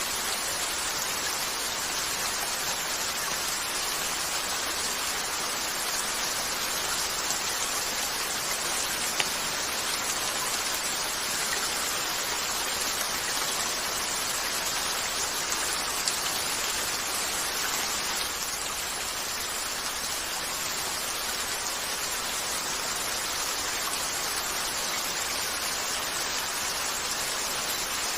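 Steady rain on a window, an even hiss, with a few isolated sharp crackles from a wood fire in a fireplace, the clearest about nine and sixteen seconds in.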